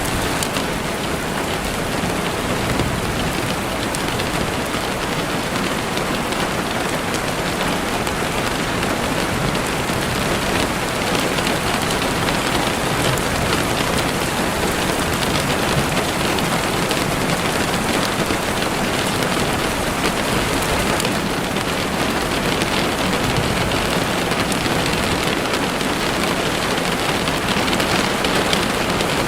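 Heavy rain falling steadily on a window, a dense even hiss of drops.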